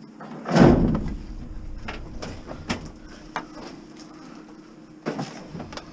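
A heavy thud and scrape about half a second in, then a string of lighter knocks and clunks: a scrapped appliance being shoved and wrestled into the back of a van.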